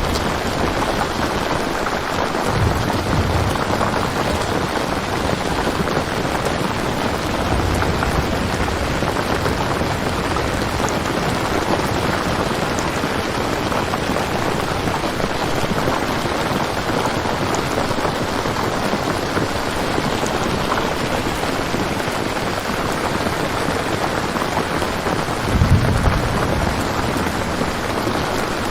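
Steady heavy rain falling, an even hiss of drops, with a low rumble of thunder about 26 seconds in and a fainter one a few seconds in.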